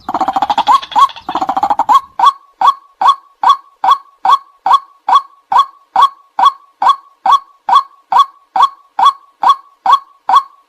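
White-breasted waterhen calling. Two rough, rapid chattering phrases in the first two seconds, then a steady run of single 'kwak' notes, about two a second.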